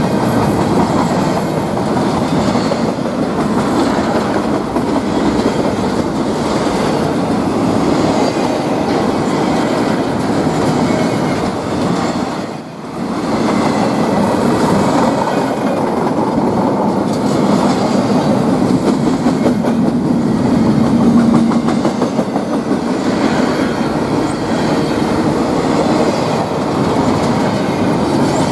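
A train rolling past close by: a continuous loud rumble with steady clacking of wheels over the rails. The level dips briefly about twelve seconds in.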